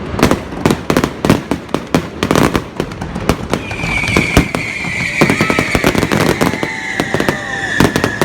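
Fireworks going off in rapid succession: many sharp bangs and pops. About halfway through, a long high whistle begins and falls slowly in pitch, over the continuing bangs.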